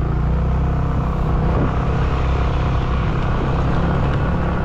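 Motorcycle engine running at a steady pace while riding, under a low rumble of wind and road noise.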